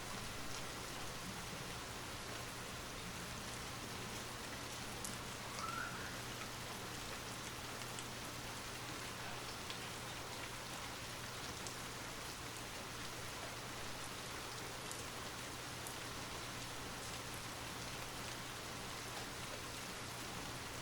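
Light rain falling steadily, a constant hiss flecked with the ticks of single drops, over a low steady hum. A brief higher sound stands out faintly about six seconds in.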